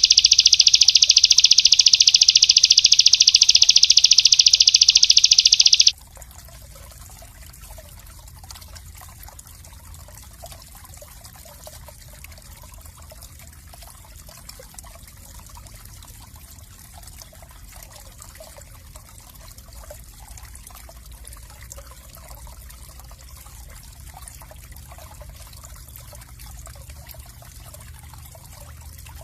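A small songbird's very fast, tightly packed high trill, loud and continuous, cuts off suddenly about six seconds in. After it, only trickling water is heard.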